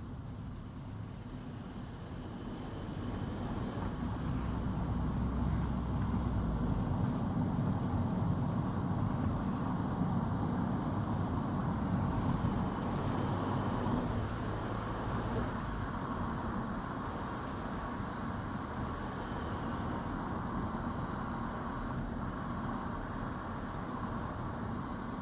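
Car on the move: steady engine and tyre road noise that swells a few seconds in and eases off after about fifteen seconds.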